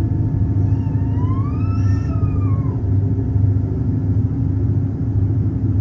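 Electric suburban train running, heard from inside the carriage: a steady low rumble and hum, with a brief whine that rises and then falls away about a second in.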